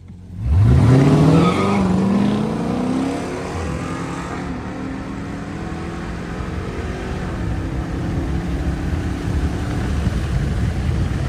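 Car engine revved hard about half a second in, its pitch climbing quickly, then settling into a steady running sound as the car pulls away.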